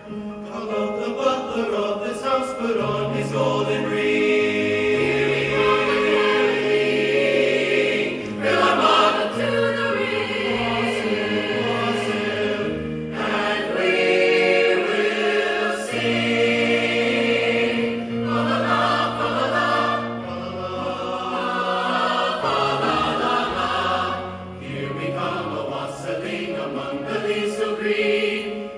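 A student choir singing, held sung lines moving over a low accompaniment that steps between long held notes.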